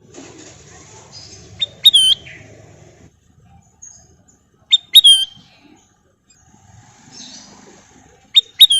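Kutilang emas bulbul calling: three short phrases of two or three sharp, high whistled notes, roughly three seconds apart, each ending in a note that bends downward.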